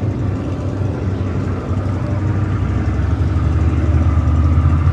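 Car engine idling with a steady low rumble, getting a little louder about three seconds in.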